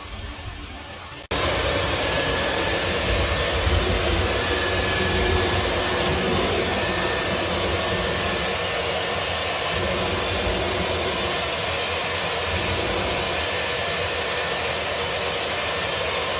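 Vacuum cleaner running steadily with a strong, even rushing noise as it pulls lint out of a dryer vent duct. It starts abruptly about a second in, over a fainter noise.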